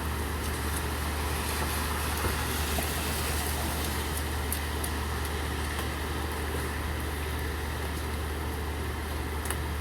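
Steady rain falling, with a low constant hum underneath and a few faint high ticks of drips.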